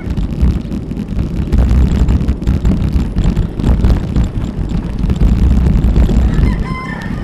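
Wind buffeting an action camera's microphone while cycling, a loud, steady low rumble. Near the end comes a brief whistling call that falls slightly in pitch.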